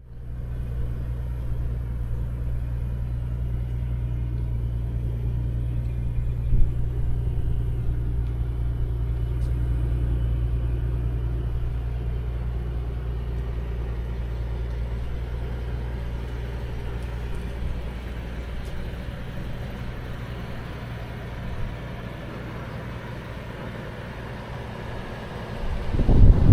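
Mercedes-Benz CL600's 5.5-litre twin-turbo V12 (M275) running at a steady engine speed, a deep, even hum that grows quieter after about seventeen seconds. Right at the end a burst of louder, rougher low noise comes in.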